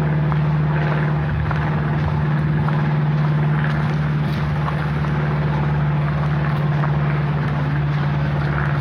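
A steady low mechanical hum, even in pitch, over a constant rushing noise.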